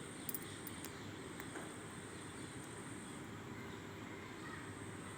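A few faint sharp clicks of roasted gray clay pieces being handled, within about the first second, over a steady low background noise.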